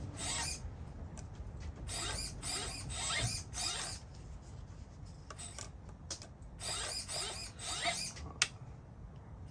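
An RC truck sound module's small speaker giving short bursts of sound as its settings menu is stepped through: a run of four quick bursts a couple of seconds in, a run of three near the end, and a sharp click just before the end.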